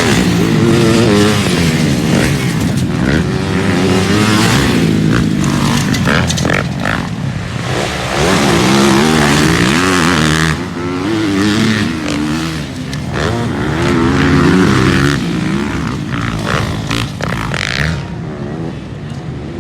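Several motocross bikes racing, their engines revving up and dropping again through gear changes, pitch rising and falling over and over with more than one engine heard at once.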